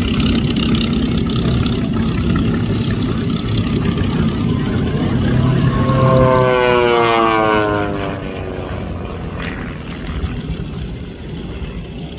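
Pitts aerobatic biplane's piston engine and propeller running. About six seconds in, its pitch slides down as the plane passes, and the sound then grows quieter.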